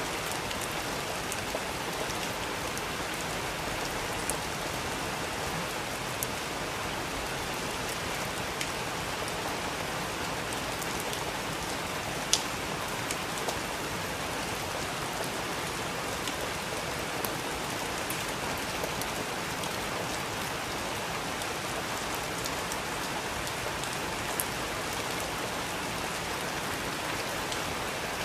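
Steady rain falling, an even hiss with scattered sharp drips striking a surface, the loudest about twelve seconds in.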